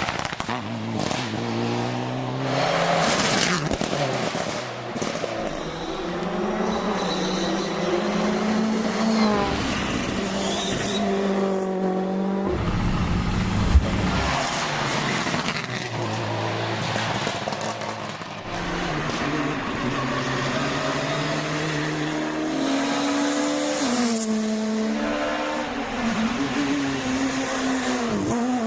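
Rally cars driven hard on a stage, engines revving up and dropping through gear changes as they approach and pass. There is a single sharp bang about fourteen seconds in.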